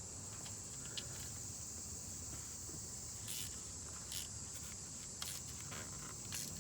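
Crickets trilling steadily and high-pitched, with a few scattered light clicks and short scrapes of hand tools as the transmission pan bolts are tightened.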